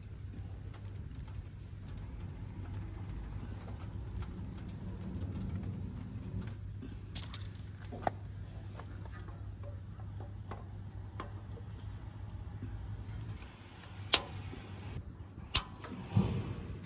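Subaru Sambar kei truck's small engine idling with a steady low hum that stops about thirteen seconds in, as if switched off. A few sharp clicks come before and after it stops, and a thump near the end.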